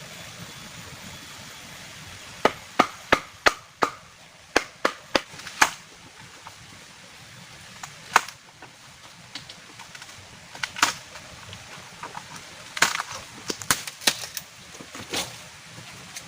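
A series of sharp strikes in irregular runs of two or three a second, with pauses between the runs, over a steady hiss.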